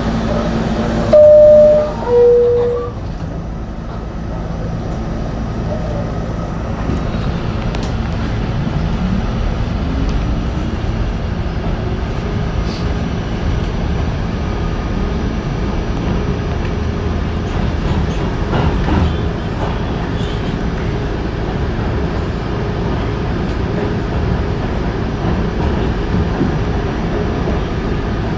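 R68 subway car's two-note door chime, a higher note then a lower one, about a second in. The train then pulls away, its traction motors whining upward in pitch as it accelerates, over steady wheel and rail rumble.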